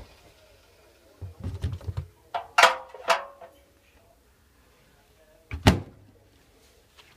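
Several clunks and knocks: a few soft thumps about a second in, two sharp clunks with a short ringing around the middle, and one more sharp clunk near the end.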